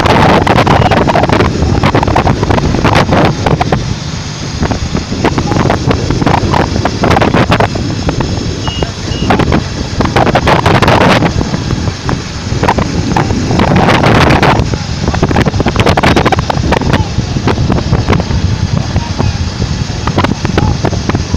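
Several motorcycle engines running as a group of motorcycles rides by, the noise swelling and easing several times as bikes pass.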